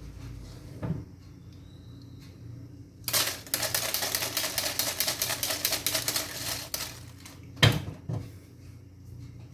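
Kitchen work: a fast, dense run of clicks or taps lasting about three and a half seconds, then two sharp knocks, over a faint steady low hum.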